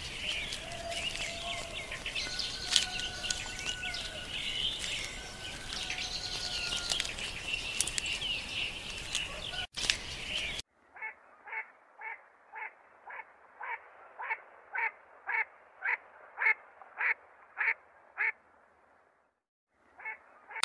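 Birds chirping and calling all together. Then, after an abrupt cut, one call repeats about twice a second, some fifteen times, growing louder before it stops.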